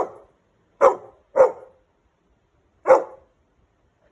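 Labrador dog barking: four short, loud barks at uneven intervals.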